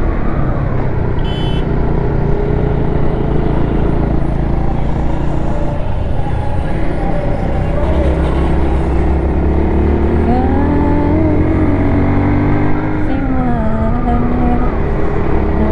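Motorcycle engine running under way, with rushing wind noise; about ten seconds in its pitch rises and falls as the revs change.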